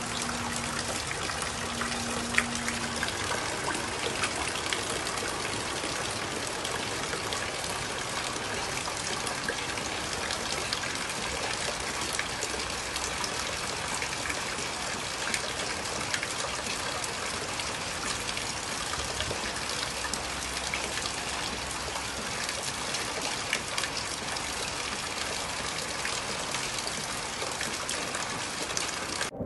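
Steady heavy rain, with water gushing and trickling close by.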